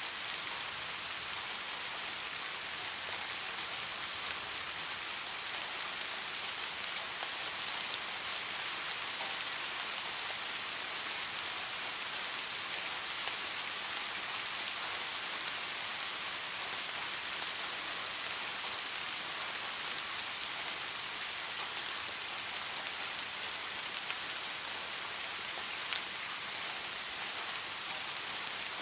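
Steady rain falling on a surface, a constant hiss with scattered drop ticks.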